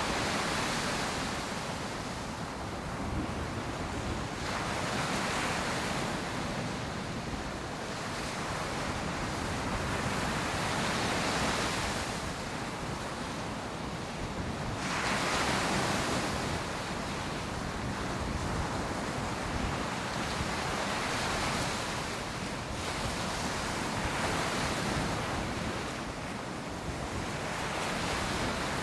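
Ocean surf breaking and washing up the beach in slow repeated swells every few seconds, with a light rush of wind on the microphone.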